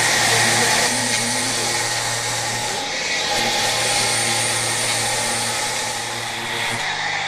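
Laser surface-cleaning machine at work on a boat hull: a steady machine hum under a continuous hiss.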